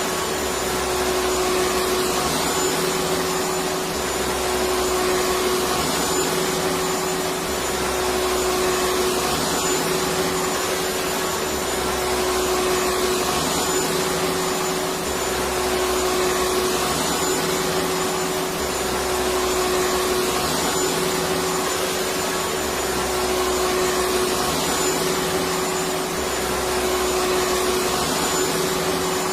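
Electric vacuum cleaner running steadily: a constant motor whine over airflow hiss. A low hum shifts back and forth in pitch every couple of seconds.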